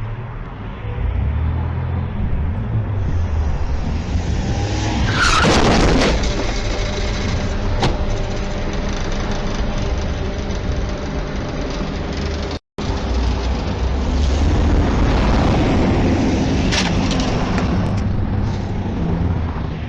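Car driving with a steady low road and engine rumble. About five seconds in comes a loud, brief burst with a falling squeal, like tyres skidding, and later a stretch of louder road noise with a few sharp clicks.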